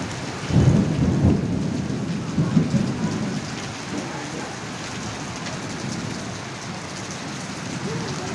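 Heavy rain falling steadily, with low rumbling in the first three seconds.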